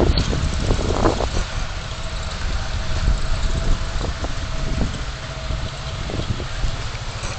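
Car engine and road noise heard from inside the car: a steady low rumble with small knocks and rattles.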